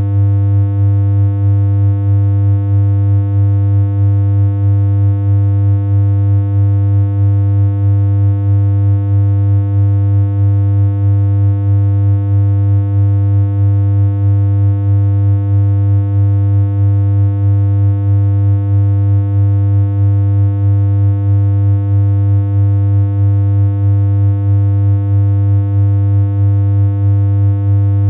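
Steady, low, buzzy synthesized electronic hum on one unchanging pitch. It has a slight regular pulse in loudness.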